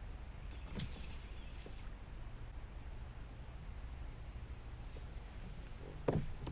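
A Rat-L-Trap lipless crankbait rattling briefly as the white bass on its treble hooks is handled: a click about a second in, then about a second of shaking rattle. A few faint handling knocks come near the end.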